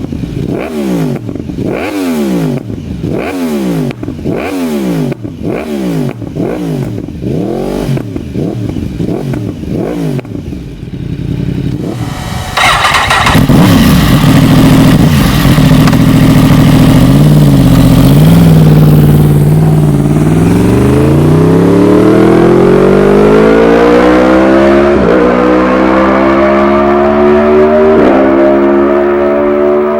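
2015 Yamaha R1's crossplane inline-four engine through a decat link pipe and Akrapovic slip-on exhaust, revved in quick repeated throttle blips for about ten seconds. Then it gets suddenly much louder and, after a few seconds, climbs in pitch with two upshifts as the bike accelerates.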